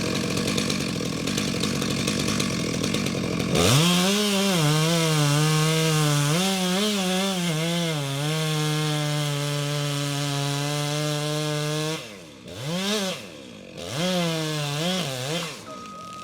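A few seconds of rough machine noise, then a chainsaw engine revs up and down several times and holds at a steady high speed. It cuts off about twelve seconds in and is followed by two short revs. A reversing beep starts near the end.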